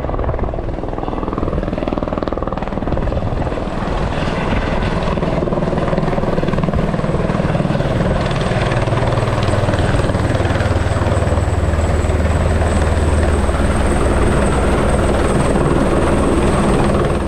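Helicopter running close by, a dense steady noise with a thin high whine. About halfway through, the low rotor sound grows stronger and the whine rises slightly.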